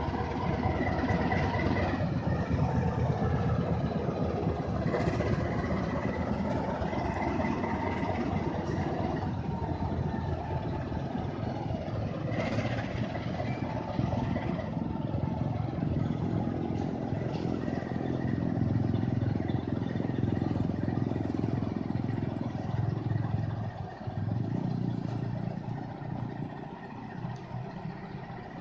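Diesel shunting locomotive's engine running steadily as it moves up to couple onto fuel tank wagons, with a few short metallic clanks.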